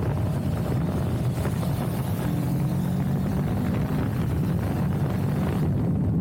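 CFMoto CL-X 700 motorcycle's parallel-twin engine running at a steady note while riding, with wind rushing over the microphone.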